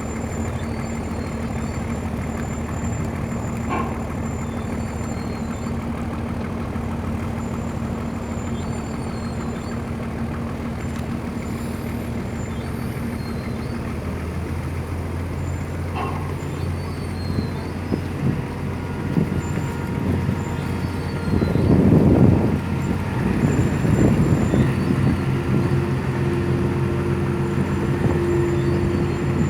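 Tugboat diesel engine running with a steady drone. Its note changes about halfway through, and in the last third it grows louder, with surges of rushing noise.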